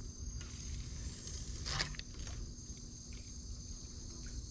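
Evening insect chorus: a steady, thin, high-pitched trill over the low rush of the creek, with a couple of faint clicks about two seconds in.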